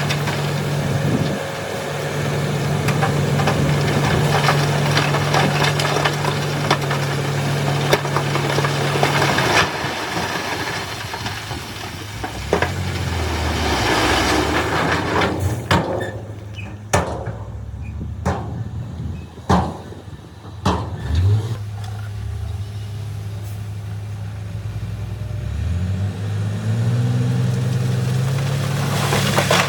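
The diesel engine of a heavy earthmoving machine running and revving up and down several times. About halfway through there is a run of sharp knocks and clanks.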